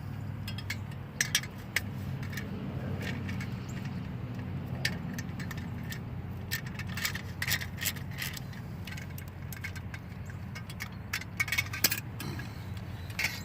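Scattered metallic clinks and taps from handling slip-on motorcycle muffler parts and their mounting hardware, coming in small clusters, over a steady low hum.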